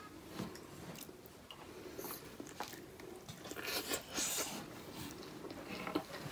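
Faint chewing and mouth sounds of someone eating steamed momo dumplings, with scattered small clicks and smacks.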